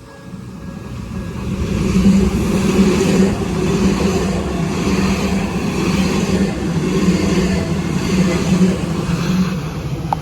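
Odakyu GSE Romancecar electric express train passing at speed. A loud rumble builds over the first two seconds and then holds, with a pulsing, rhythmic clatter from the wheels. The level-crossing warning bell is heard faintly at the very start.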